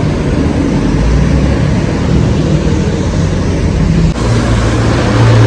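Traffic passing on a busy road, engines running under a steady wash of road noise; a heavier engine drone comes in about four seconds in as a large vehicle draws close.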